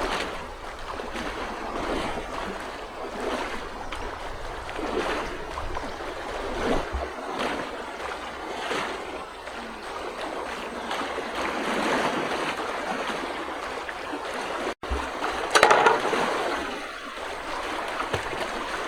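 Water sloshing and splashing in repeated surges every second or two, with a louder splash about three-quarters of the way in. The sound drops out for an instant shortly before that splash.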